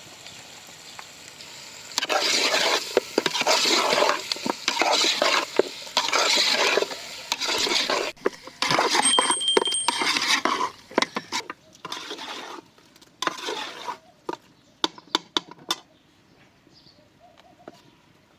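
Food being stirred in a pan or pot with a utensil: repeated scraping strokes, then a few sharp clinks before it stops.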